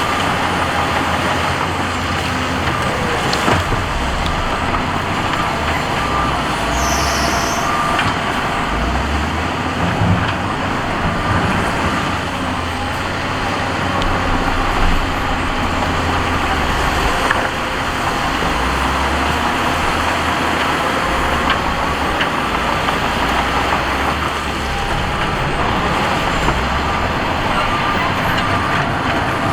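Heavy diesel earthmoving machinery running, the engine note rising and falling as the load changes.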